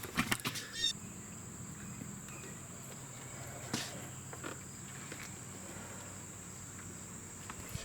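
Insects trilling outdoors: a constant high-pitched buzz that starts abruptly about a second in, over a faint low hum. There are a few clicks near the start and one louder click partway through.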